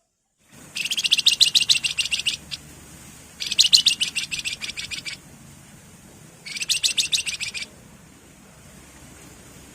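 A wergan jawa (flamboyan) songbird singing three fast, high trills of rapidly repeated notes, each lasting one to two seconds, with short pauses between them.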